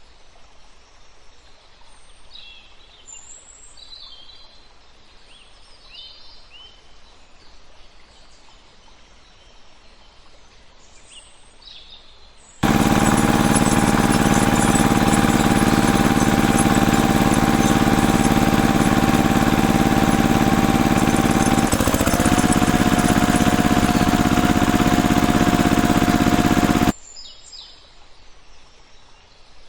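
Quiet outdoor ambience with scattered bird chirps, then an engine running loud and steady with a held whine. The engine sound starts abruptly about halfway through, its whine drops slightly in pitch a little later, and it cuts off suddenly shortly before the end, leaving the birds again.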